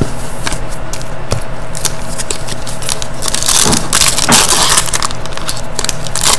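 Trading cards and their plastic sleeves and pack wrappers being handled close to the microphone: a continuous crackling and crinkling, with a louder burst of crackle about three and a half to four and a half seconds in.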